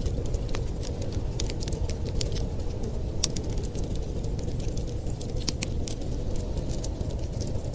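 Wood fire crackling, with frequent irregular sharp pops and snaps over a steady low rumbling noise.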